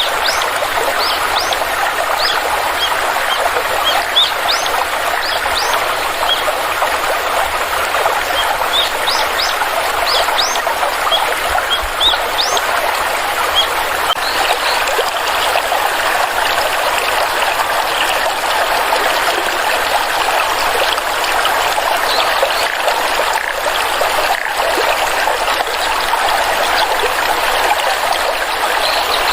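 Stream water trickling and flowing steadily. Over about the first half, birds add many short, high, rising chirps.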